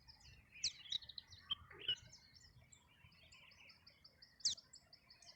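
Faint birdsong: scattered high chirps, then a run of quick repeated high notes and a brief sharp whistle near the end.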